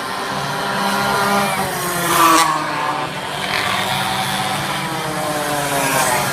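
Several racing minibikes with small high-revving engines going past, their engine notes rising and falling in pitch as the riders open and close the throttle; the loudest pass is about two seconds in.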